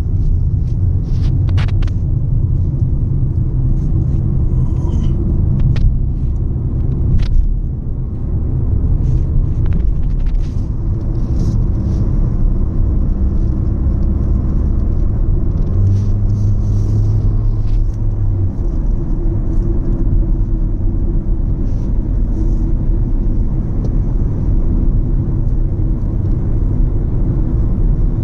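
Car cabin noise while driving: steady low engine and road rumble, with a louder low hum for a couple of seconds past the middle and occasional faint clicks.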